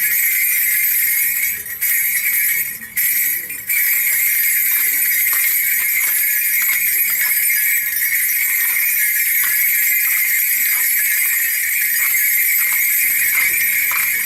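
Small bells shaken steadily in a continuous jingling shimmer, broken by brief pauses a couple of seconds in.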